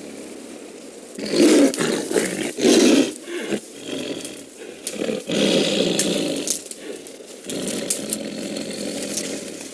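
A snared Siberian tiger roaring: two loud roars close together about a second in, then quieter, continuing sound.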